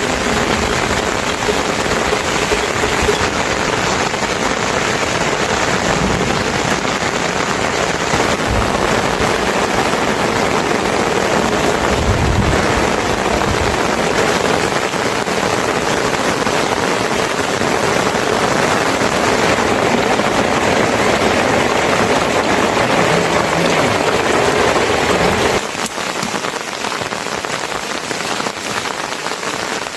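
Steady heavy rain falling and pattering on surfaces, a dense even hiss. About 25 seconds in, the rain becomes slightly quieter and thinner, losing its low rumble.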